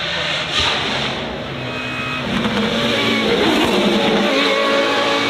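Racing car engine running at high revs, its pitch rising and falling as the car accelerates and lifts off.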